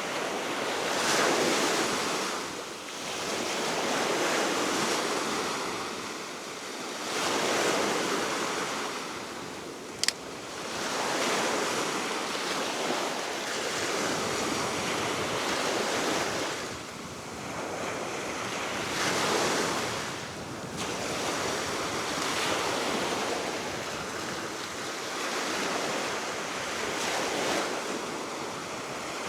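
Baltic Sea waves washing onto the shore, swelling and falling back every few seconds, with steady wind and some wind noise on the microphone. A single sharp click about ten seconds in.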